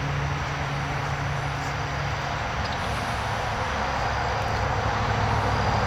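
An engine running steadily, its low hum dropping to a lower pitch about halfway through, over a constant outdoor noise.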